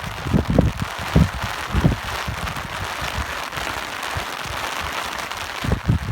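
Steady rain falling, with gusts of wind buffeting the microphone as low rumbles, several in the first two seconds and again near the end.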